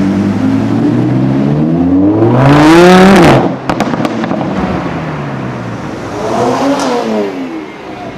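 Sports car engine accelerating hard, the revs climbing to a loud peak about three seconds in, followed by a few sharp exhaust pops as the revs drop; a second, shorter burst of acceleration rises and falls about six to seven seconds in.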